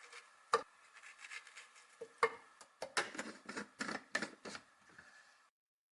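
Kitchen food-prep noises: scattered knocks and clicks of utensils, then a run of regular strikes about three a second, which cuts off suddenly near the end.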